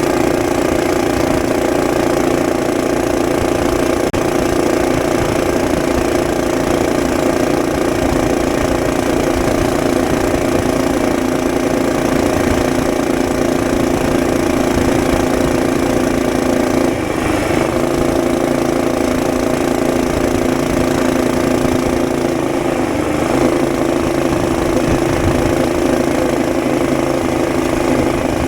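Mini bike's small single-cylinder engine, with its governor removed, running steadily at a fairly constant speed. Its pitch shifts about 17 seconds in and again about 23 seconds in.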